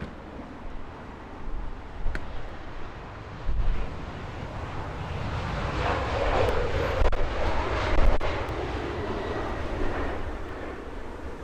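Jet airliner passing by: its engine noise swells over a few seconds to a peak about halfway through, then fades away.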